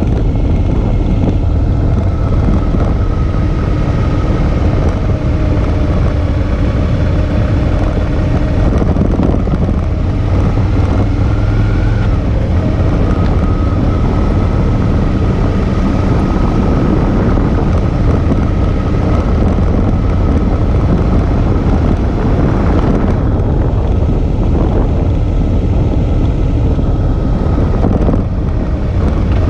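Suzuki V-Strom 650's V-twin engine running under way on the road, its pitch drifting a little up and down, with heavy wind rushing over the microphone.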